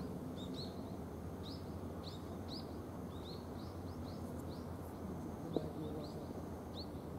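A small bird calling over and over with short, rising, high-pitched chirps, one or two a second, against a steady low hum of outdoor background noise. A single faint tap about five and a half seconds in.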